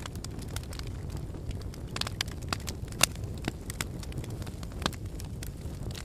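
Fire in a fireplace crackling: a steady low rumble of the flames with scattered sharp pops, a small cluster about two seconds in and the loudest pop about three seconds in.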